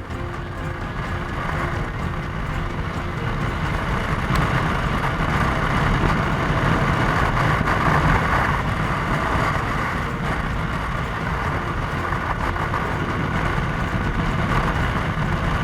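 Motorcycle running at road speed: a steady rush of engine, road and wind noise.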